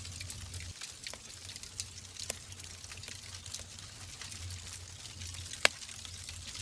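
Wood fire crackling in a fireplace: a steady soft hiss with scattered sharp pops, the loudest about five and a half seconds in.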